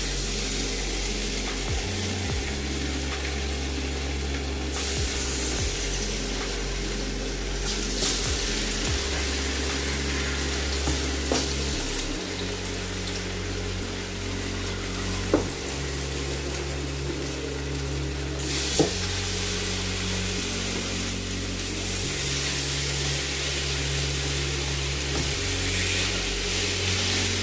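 Chicken drumsticks frying skin side down in hot olive oil, a steady sizzle with a few sharp clicks, over background music.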